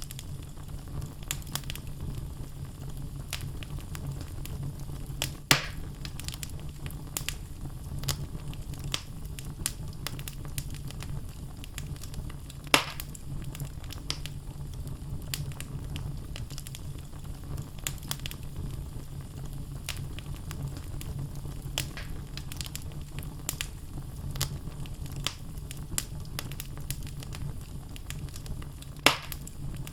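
Wood fire burning in a fireplace: logs crackling with many small ticks over a low, steady rumble. Three louder pops stand out, the last near the end.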